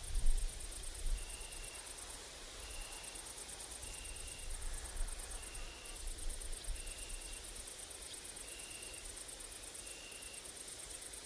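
Grasshoppers and crickets stridulating in a high, rapidly pulsing buzz, in phrases of a few seconds broken by short gaps. A short mid-pitched note repeats steadily about once a second. Low wind rumble on the microphone swells near the start and again around the middle.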